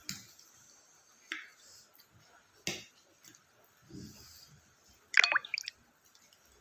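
Close-miked eating sounds: a few wet mouth clicks and smacks, then a louder cluster of wet squelching clicks about five seconds in.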